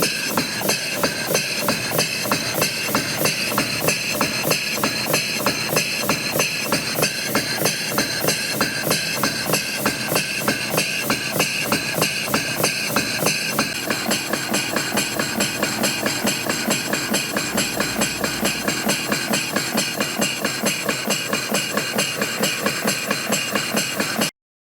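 Large model horizontal factory engine running on compressed air, with a steady, even exhaust beat of about four puffs a second over a mechanical clatter. The sound changes a little about halfway through and cuts off suddenly near the end.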